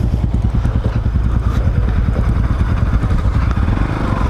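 Motorcycle engine running as the bike rides off, a steady low pulsing.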